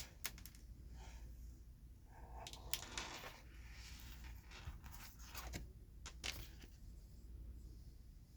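Jumbo Pokémon cards being handled: scattered taps and clicks with soft rustling, all faint.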